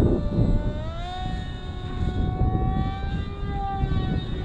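Electric motor and propeller of a Parkzone Icon A-5 RC seaplane whining overhead, rising in pitch about a second in as it is throttled up, then holding steady. Gusty wind buffets the microphone throughout.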